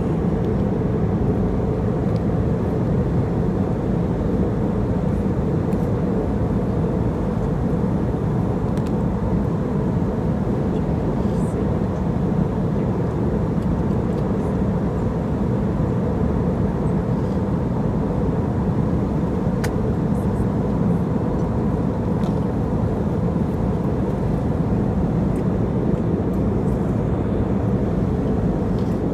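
Airliner cabin noise in flight: the steady, even rumble and hiss of engines and airflow, with a faint constant hum.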